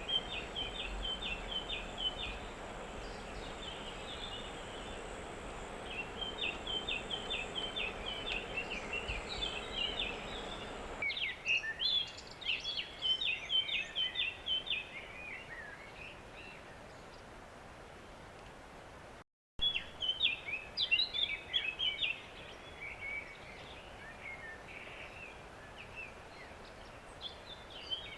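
Small songbirds singing in short, fast twittering phrases over steady outdoor background noise, with a brief dropout to silence about two-thirds of the way through.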